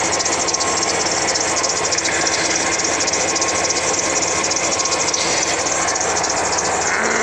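Chevy 454 big-block V8 running steadily with the hood open, its water pump circulating flush water through the cooling system.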